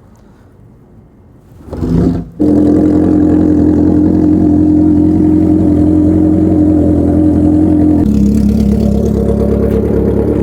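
1980 Kawasaki KZ650's air-cooled inline-four being kick-started in sub-freezing cold: a short burst as it turns over about two seconds in, then it catches and runs steadily. About eight seconds in, the running note drops to a lower engine speed.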